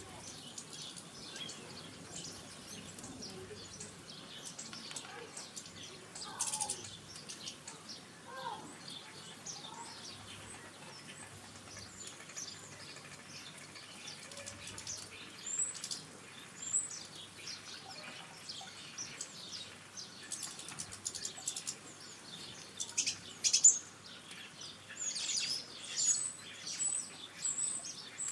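Small garden birds chirping and twittering, many short high calls overlapping, growing busier and louder in the second half with a quick run of repeated high notes near the end.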